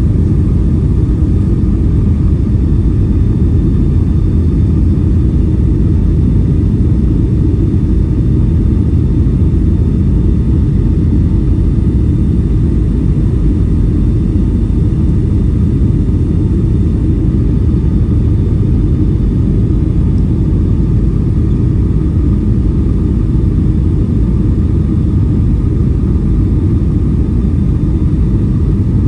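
Steady low rumble of a Boeing 757-300 airliner heard from inside the passenger cabin, with faint steady whining tones above it.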